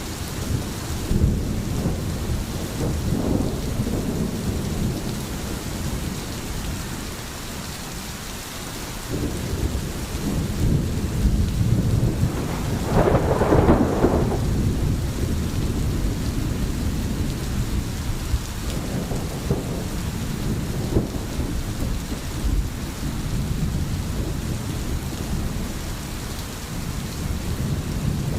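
Steady rain falling, with low rolling thunder underneath; a louder peal of thunder swells and fades about halfway through.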